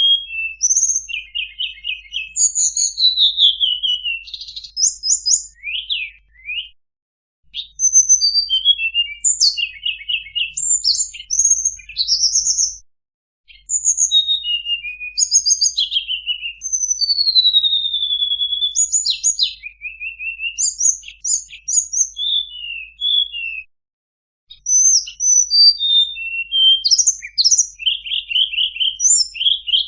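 Tledekan bird song played as a bird-lure recording: quick, varied whistled phrases of high rising and falling notes and short trills, with brief pauses between bouts about a third and four-fifths of the way through.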